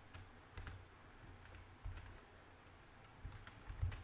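Faint computer keyboard typing: scattered key clicks, coming quicker near the end.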